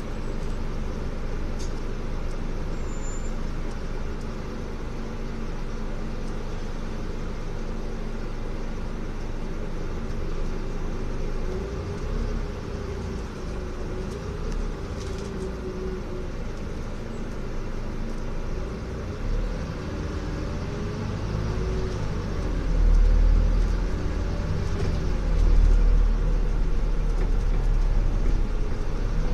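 Scania N250UD double-decker bus heard from inside the cabin: its five-cylinder diesel and drivetrain run under way with a whine that rises and falls in pitch. The low engine rumble grows louder in the last third as the bus pulls harder.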